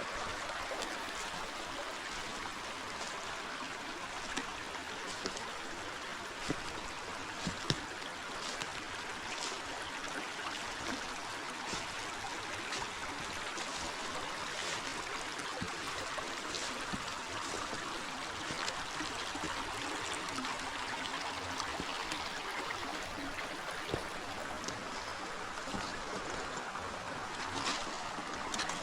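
River water flowing: a steady rush and trickle, with scattered faint clicks.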